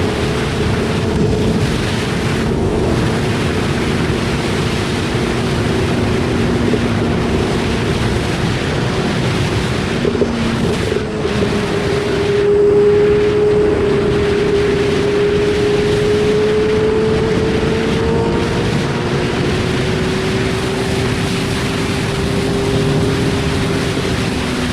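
BMW S1000RR inline-four engine running at a steady cruise, its note rising and falling gently, under heavy wind noise on the microphone.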